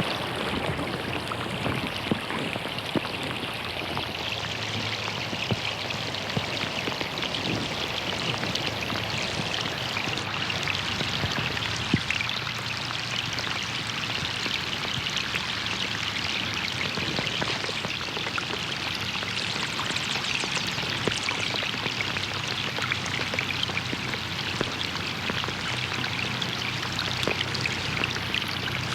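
Steady rain falling on a pond: a dense patter of drops hitting the water surface over a continuous wash of water, with a few louder individual drops.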